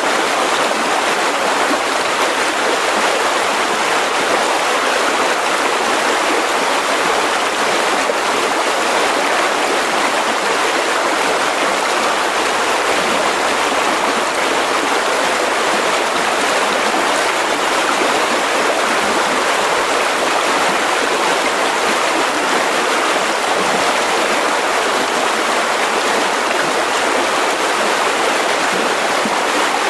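Mountain river rushing over rocks, a steady, unbroken flow of water.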